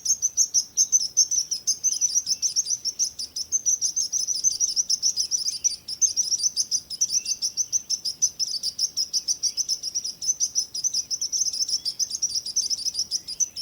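Songbirds chirping: a dense, unbroken run of quick, high-pitched chirps, several a second.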